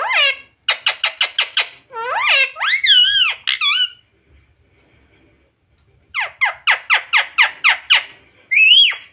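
Ringneck parakeet calling: a fast run of sharp, high, repeated squawks and a few warbling glides, a pause of about two seconds, then another fast run of squawks ending in a rising-then-falling whistle.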